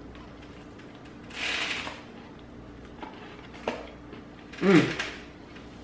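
A person eating a breaded fried chicken tender: chewing, with a noisy breath or crunch about a second and a half in and a small click near the end. Just before the end comes a short 'mm'-like hum of the voice.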